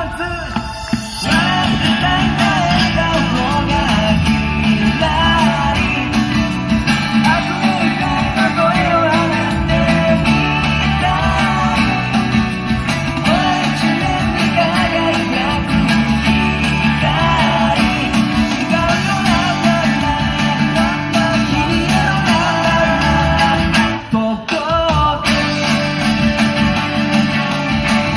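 Acoustic guitar strummed in a steady upbeat rhythm while a man sings, played live. The playing drops out briefly for about a second near the end, then starts up again.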